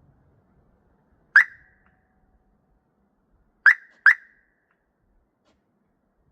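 Chevy Trailblazer's horn chirping three times: a single short chirp, then two more close together about two seconds later.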